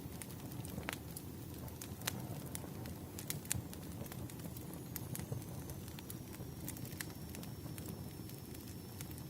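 Bonfire crackling: a steady low rumble of burning wood with irregular sharp pops and snaps.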